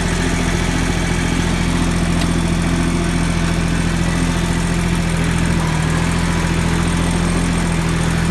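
Yanmar 169D compact tractor's diesel engine running steadily at a constant speed, with an even low drone.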